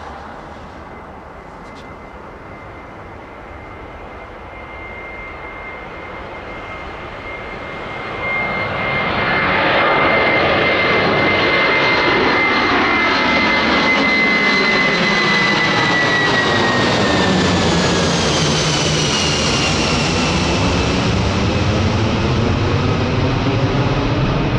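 Boeing 747-400 freighter's four jet engines at takeoff power. The roar swells sharply about eight seconds in and stays loud, with a high fan whine that drops in pitch as the jet passes by.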